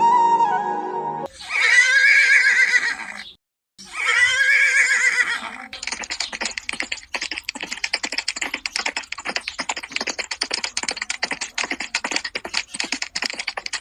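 A horse whinnies twice, each call wavering and lasting about two seconds, followed by a long run of fast clattering hoofbeats.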